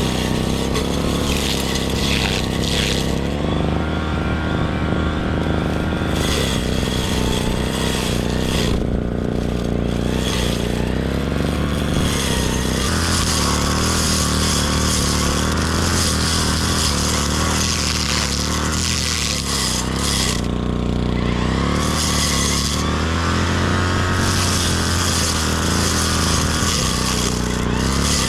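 Small petrol engine of a grass-cutting machine running continuously, its pitch dipping and rising a few times as it takes load or is throttled.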